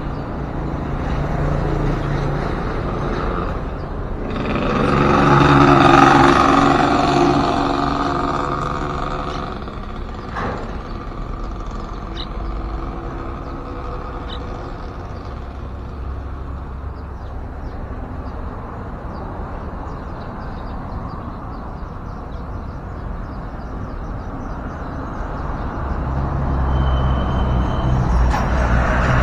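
Road traffic passing: a heavy vehicle's engine swells and fades about five to eight seconds in, then a steady traffic rumble, with another vehicle approaching near the end.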